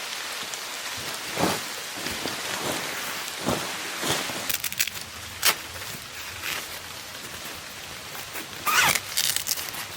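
Steady rain falling, with a few short knocks and rustles scattered through it.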